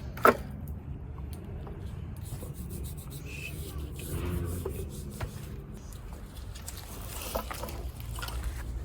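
Hand work on an engine bay: a sharp clank of metal parts or a tool about a third of a second in, then faint rubbing, scraping and small clicks as parts are handled, over a low steady hum.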